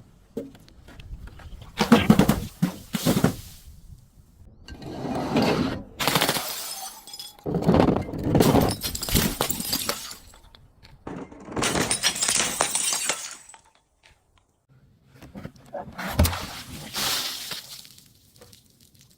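Glass bottles being crushed and breaking, in about five separate bursts of crunching and shattering with short pauses between.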